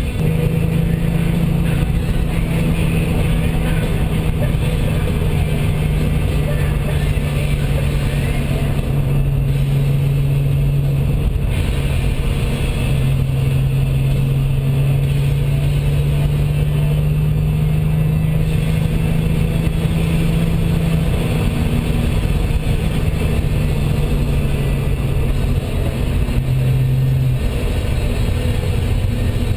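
Car engine droning steadily at cruise over tyre and wind noise, heard from inside the cabin; the engine note steps down and up in pitch a few times as the speed changes.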